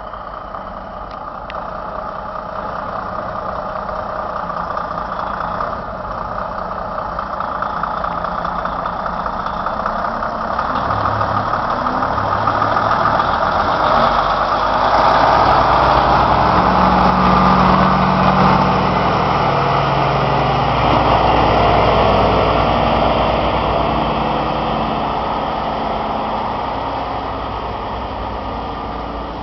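Heavy vehicle engine running, growing steadily louder to a peak past the middle and then slowly fading.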